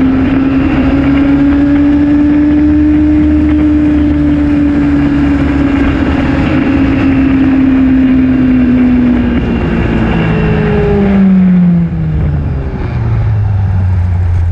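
2008 Honda CBR600RR's inline-four engine running at a steady high rev with wind rushing past, then about ten seconds in the revs fall away in steps as the bike slows.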